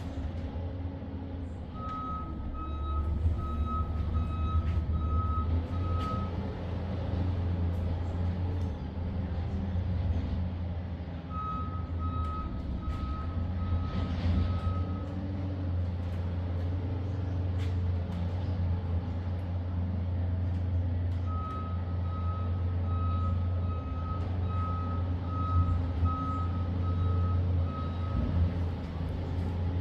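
A vehicle engine running steadily with a low, even rumble. Over it come three runs of high electronic beeps, about one and a half a second, like a reversing alarm: one near the start, one in the middle and a longer one near the end.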